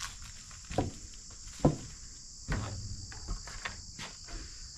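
A steady, high-pitched chorus of crickets or other insects, broken by a few short thuds or footsteps, the loudest a little under two seconds in.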